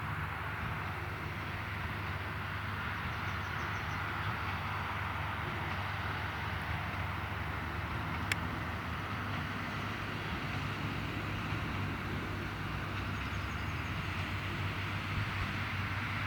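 Valtra tractor and Claas Quadrant 2200 square baler at work in the field, a steady machinery drone. There is a single sharp click about eight seconds in.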